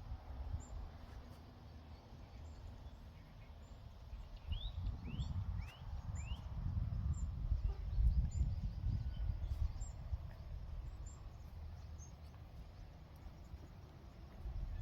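Birds chirping over a low rumbling noise: four quick chirps close together about five seconds in, and faint high peeps repeating throughout. The rumble is loudest around eight seconds in.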